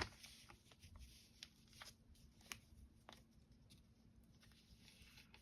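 Near silence: room tone with a faint steady hum and a few faint ticks and rustles of paper-pieced quilt sections being handled, the clearest about two and a half seconds in.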